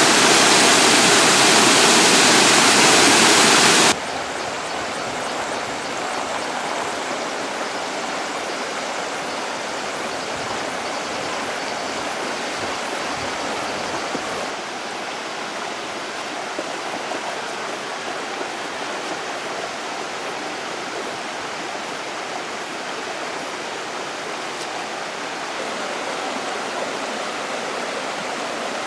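Waterfall rushing water, a steady rush. It is loud for about the first four seconds, then drops suddenly to a quieter steady rush.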